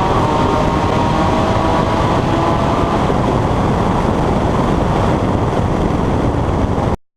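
Porsche 981's flat-six running through an Armytrix valved exhaust while driving. The engine note climbs slightly in pitch for about three seconds, then fades into steady road and wind noise. The sound cuts off abruptly near the end.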